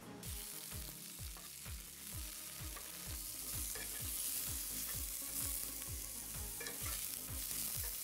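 Carrot sticks sizzling as they stir-fry in a pan, turned over with a slotted spatula. A steady frying hiss runs throughout.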